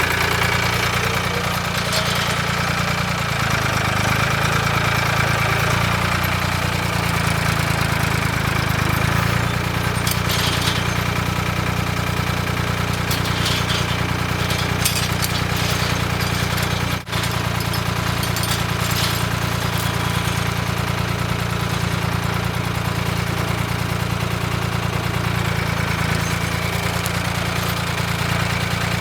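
An engine running steadily at a constant speed, with a few light clanks over it and a momentary break about two-thirds of the way through.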